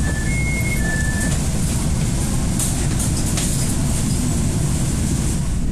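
Steady rumble and hiss of a local passenger train running, heard from inside the carriage. A two-note electronic beep alternates high and low during the first second or so, then stops.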